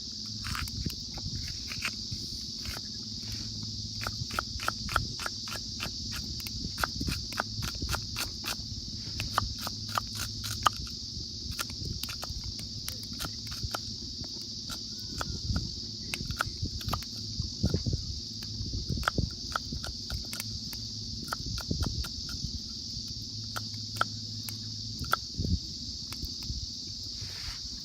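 A steady, continuous high chorus of insects chirring, with many scattered short clicks and taps over it.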